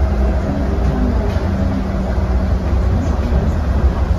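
Driverless airport people-mover train running through its tunnel, heard from inside the car as a steady low rumble with a faint hum.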